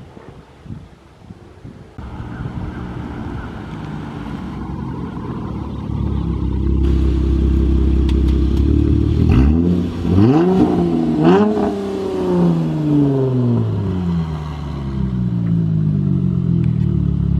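Dodge Challenger V6 with a straight-pipe exhaust idling, then blipped twice in quick succession about halfway through. The revs fall slowly back to a steady idle.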